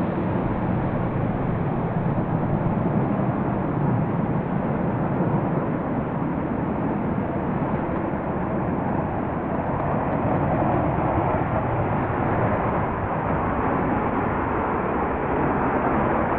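F-35B Lightning's jet engine running with a loud, steady noise that holds level, with no clear change in pitch.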